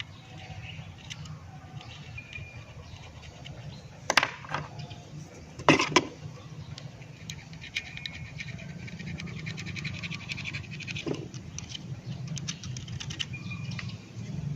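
Two sharp knocks about four and six seconds in, with a fainter one later, over a low steady hum and birds chirping in the background.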